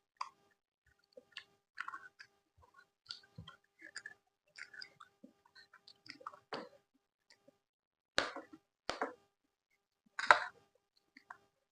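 Close-miked chewing and mouth sounds: an irregular run of small wet clicks and smacks, then three louder bites or chews in the last few seconds.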